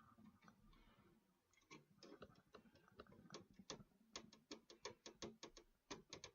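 Faint small metal clicks of a screw being driven into a graphics card's mounting bracket in a PC case, quickening to about five or six clicks a second near the end.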